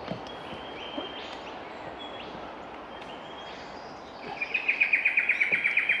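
Rainforest birds calling over a steady background hiss: a few short whistled notes, then from about four seconds in a loud, fast trill of rapid repeated pulses.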